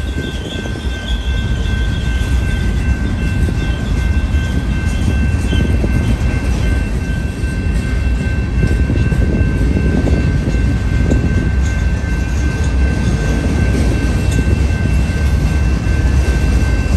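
Freight train cars rolling past, a steady, loud rumble with steady high-pitched squealing tones over it; a higher wheel squeal fades out about five seconds in.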